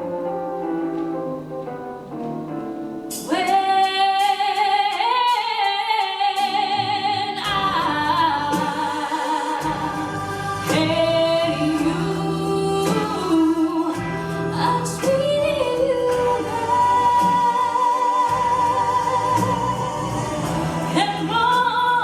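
Instrumental backing music, joined about three seconds in by a woman singing long, ornamented lines with vibrato that bend up and down in pitch.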